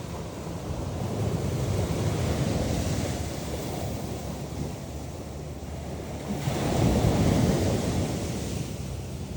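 Ocean surf washing on a beach, with wind rumbling on the microphone. Two swells in the wash, the louder one about two-thirds of the way in.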